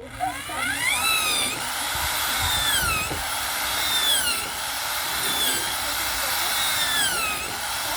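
Handheld electric power tool motor switching on and running, its pitch sagging and picking up again every second or two as it is loaded in the cut, while building a wooden speaker box.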